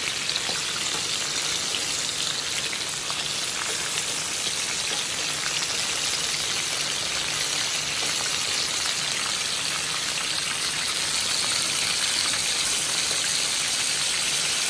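Pieces of chicken back frying in hot oil in a large skillet, sizzling steadily and growing a little louder in the second half.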